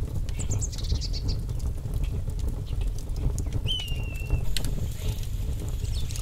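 Oil crackling under a vegetable-and-egg patty frying in a wide pan, with short sharp pops throughout over a steady low rumble. Birds chirp about half a second in, and one gives a clear, slightly falling whistle just past the middle.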